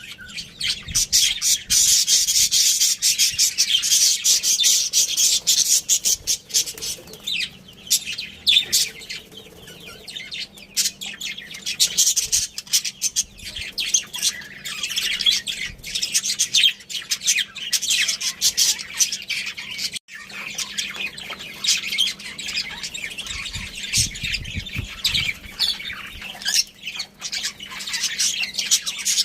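Budgerigars chirping, a dense run of quick high chirps with short gaps, busiest in the first few seconds and again midway.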